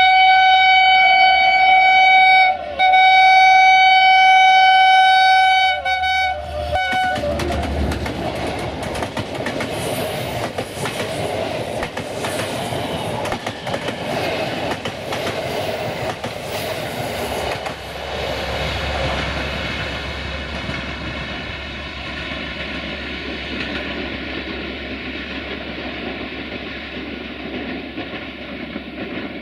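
Class 64 diesel-electric locomotive's horn sounding two loud chord blasts, a short one and then a longer one. Then the locomotive and its passenger coaches pass close, with engine rumble and the clatter of wheels over the rails, fading slowly.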